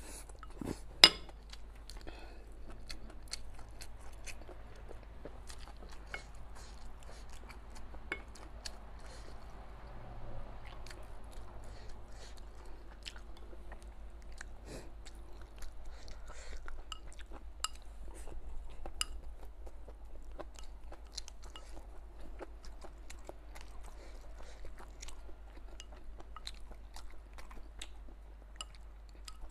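Close-up chewing and crunching of stir-fried chicken giblets and rice, with many small wet clicks throughout. There is one sharp, much louder click about a second in.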